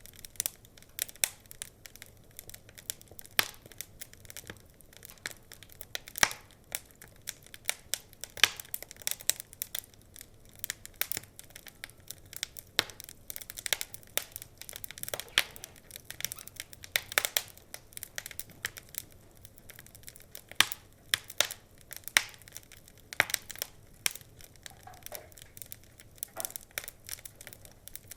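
Wood fire crackling, with frequent irregular sharp pops and snaps from the burning logs over a low hiss.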